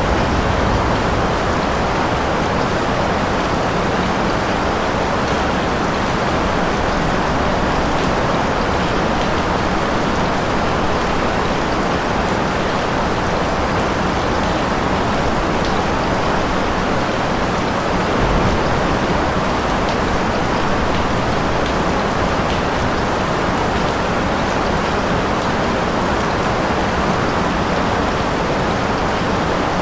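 Steady, heavy rain: an even, unbroken hiss of rainfall.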